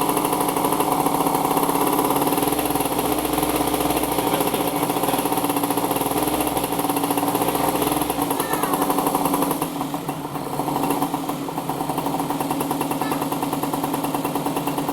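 Motorcycle engine running steadily with a rapid, even firing beat, easing off briefly about ten seconds in.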